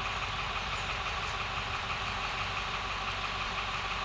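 A truck engine idling steadily, with no change in pace.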